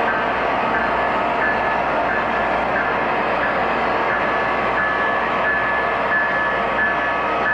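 Model trains running on a layout: a steady running rumble with short high-pitched squeals that come and go every half second or so.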